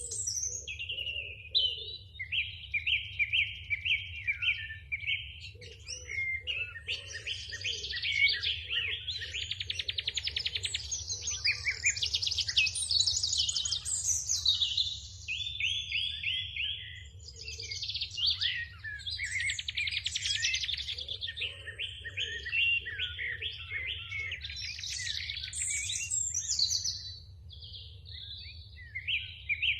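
Sparrows chirping in a dense, continuous chorus of rapid repeated chirps from several birds at once, over a low steady hum.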